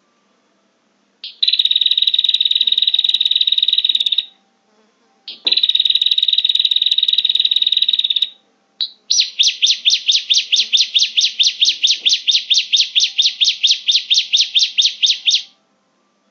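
Recorded prinia (prenjak) calls played as a bird-catching lure: two dense, buzzy trills of about three seconds each, then a run of rapid, evenly repeated notes lasting about six seconds, at roughly six notes a second.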